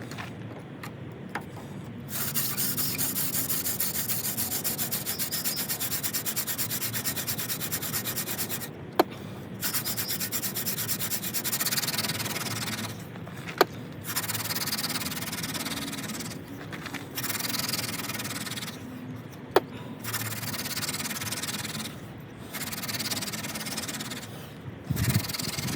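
Yucca hand-drill spindle twirled between the palms in a dead winter creeper fire board: wood rubbing on wood in fast back-and-forth runs as the socket is burned in. The runs are broken by several short pauses, and a few sharp clicks stand out.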